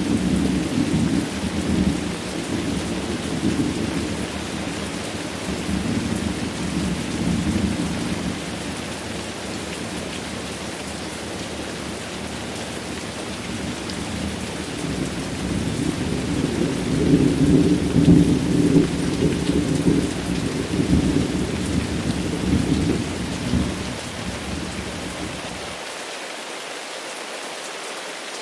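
Steady heavy rain with rolling thunder. A rumble at the start fades out, then a second, louder roll builds, peaks past the middle and dies away. Near the end the low rumble cuts off abruptly, leaving only the hiss of rain.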